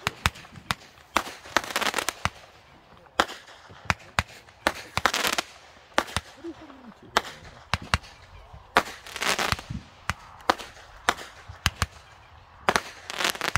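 Consumer fireworks going off: a string of sharp bangs at irregular intervals, about one or two a second, with a few longer noisy spells of about half a second each.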